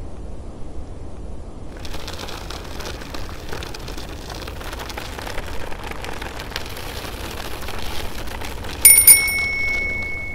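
A bicycle riding past, its rolling noise coming in about two seconds in. Near the end its bell rings twice quickly, then rings out.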